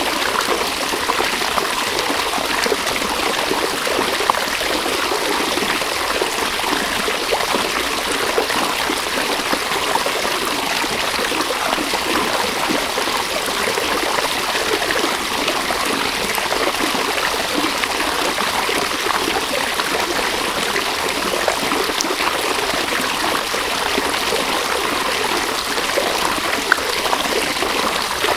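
A river or stream running steadily over rocks, a continuous rushing and babbling of water with small trickles and splashes.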